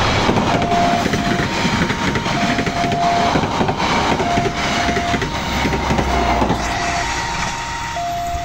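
Railway level-crossing warning alarm sounding in two alternating tones, switching about once a second, over the rumble and rail noise of a passing train, which eases off near the end.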